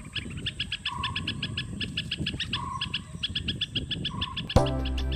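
Birds calling: a fast, steady run of high chirps with a lower short note repeating about every second and a half. Music comes in near the end.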